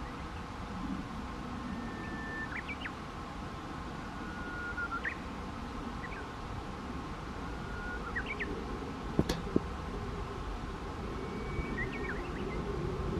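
Steady low rush of wind outdoors with a songbird singing about five times, each phrase a short level whistle ending in a quick rising flourish. Two sharp knocks about nine seconds in.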